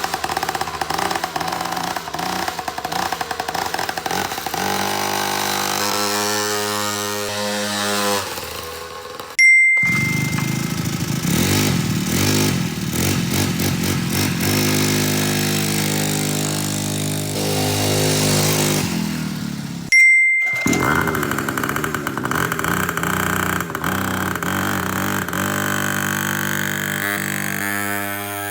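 Small petrol engines of mini vehicles, cold-started and running, in three separate takes. A short high ding marks each change between takes, about a third and two thirds of the way through.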